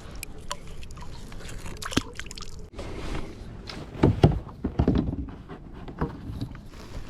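Water trickling and splashing around a kayak, with scattered clicks and a few louder knocks against the hull about four to five seconds in.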